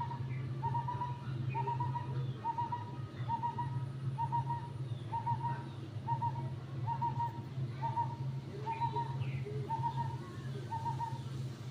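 A bird repeating a short hoot-like note steadily, a little more than once a second, while fainter chirps from other birds come and go. A steady low hum runs underneath.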